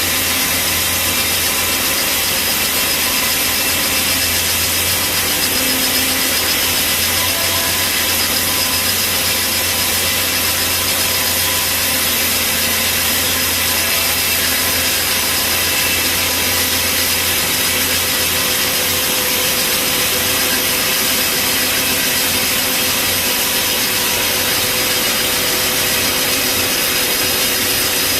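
Bandsaw sawmill blade running through a mahogany log: a loud, steady sawing noise with a continuous whine over it. A low hum underneath fades out about two-thirds of the way through.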